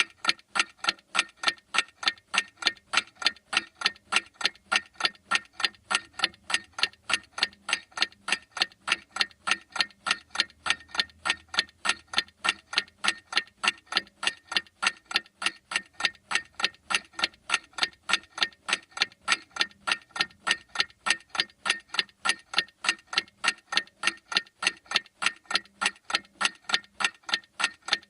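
Clock ticking with steady, evenly spaced ticks.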